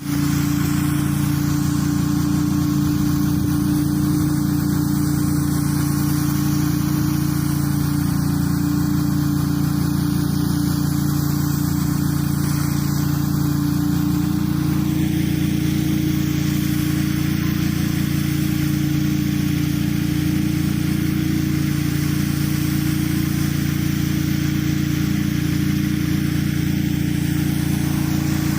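Gas-engine pressure washer running steadily, its engine drone under the hiss of the high-pressure water spray. The sound cuts in suddenly at the start, and the hiss eases a little about halfway through.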